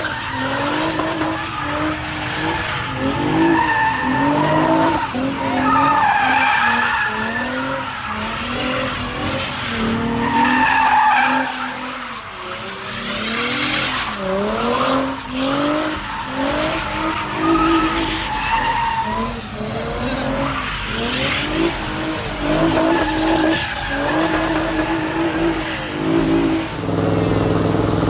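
A car engine revving hard again and again, each time climbing and then held at high revs, while the tires screech in a burnout or donuts.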